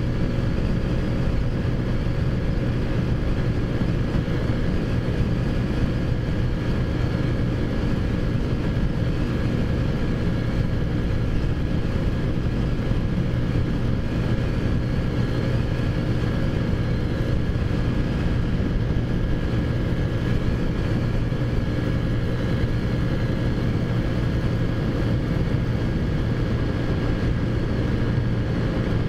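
Taotao Zummer 50cc four-stroke scooter engine running at a steady cruising speed, a constant drone that holds one pitch throughout.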